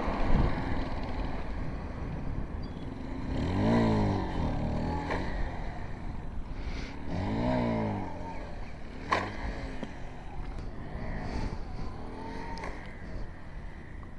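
Motorcycle engine running under a steady low rumble and revving up and dropping back twice, about four and about seven and a half seconds in, with a sharp click a little after nine seconds.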